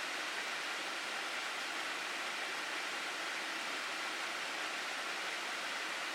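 Water of a mountain gorge stream rushing steadily over rocks.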